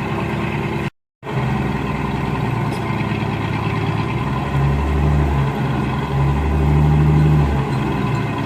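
Engine of heavy construction machinery running steadily, its low hum growing stronger and easing off every second or two. A brief total dropout comes about a second in.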